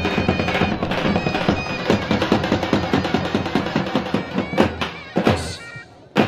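Live Kurdish wedding dance music from a band: a reedy wind-instrument melody over a fast, steady drum beat. The music thins out about five seconds in and nearly stops, then comes back with a sharp beat near the end.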